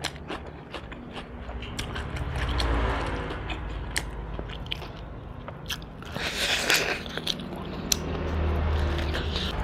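A person chewing and biting roast duck: many short wet mouth clicks, with a louder crunchy stretch about six seconds in.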